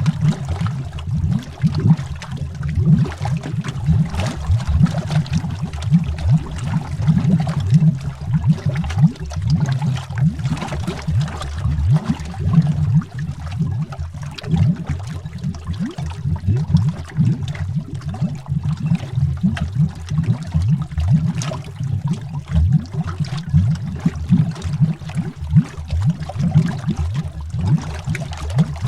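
Continuous underwater bubbling: a dense, deep stream of bubbles with many small irregular pops over a low rumble.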